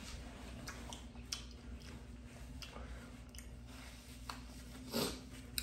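Close-miked chewing of food with faint wet mouth clicks, and a louder brief smacking sound about five seconds in.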